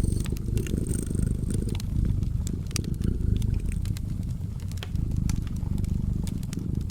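Domestic cat purring steadily as a low, close rumble, with the sharp scattered pops and crackles of a wood fire.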